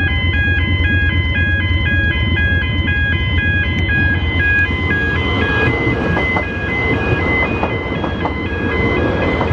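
Level crossing warning bells ringing in a steady alternating two-tone pattern, about two strikes a second. From about halfway through, the rumble and clatter of an approaching train grows underneath.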